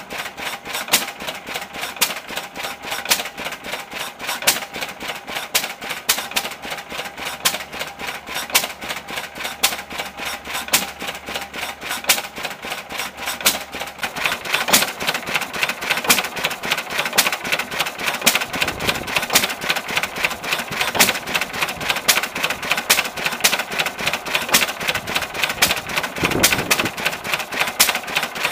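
1924 Lister L type stationary engine running, a rapid, even clatter of sharp mechanical clicks that gets louder about halfway through.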